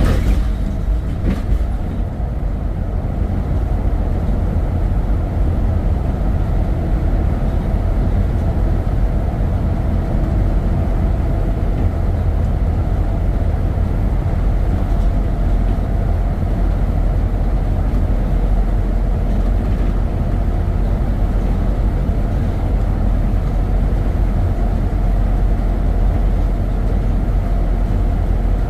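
Steady low rumble of a vehicle driving along the road, even throughout, with a faint steady hum above it.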